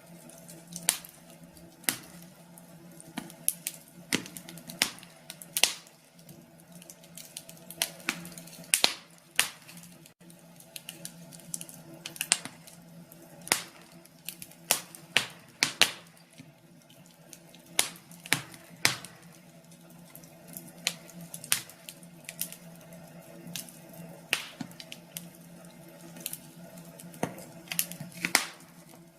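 Wood fire crackling, with irregular sharp pops and snaps of burning logs over a faint steady hum.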